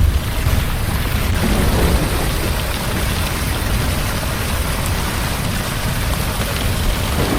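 Heavy rain falling steadily in an even hiss, with a low rumble underneath, typical of a rainstorm recording.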